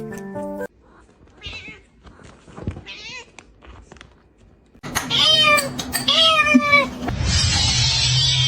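A cat meowing twice, two long, loud meows close together just past the middle. A few faint sounds come before them, and a loud hissing noise with a low hum takes over near the end.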